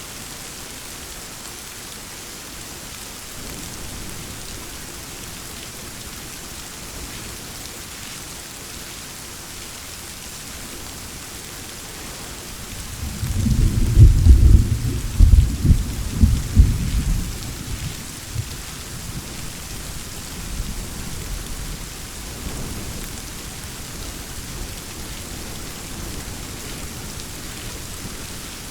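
Steady rain falling, with a thunderclap about halfway through: a low rumble swells, breaks into several loud cracks over a few seconds, then rolls away.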